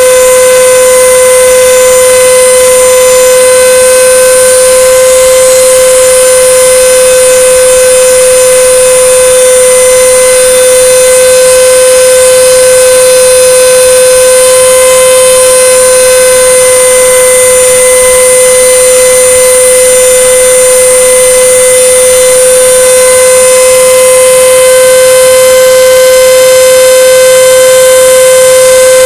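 CNC router spindle running with a steady, loud high-pitched whine while the bit cuts through 5 mm plywood.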